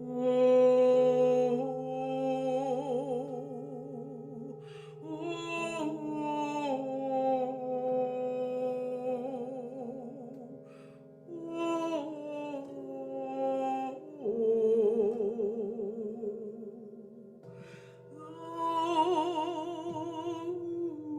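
Wordless female singing: long held notes with a wide vibrato, layered over one another and over a low sustained drone, moving slowly from pitch to pitch as meditative sound-healing toning.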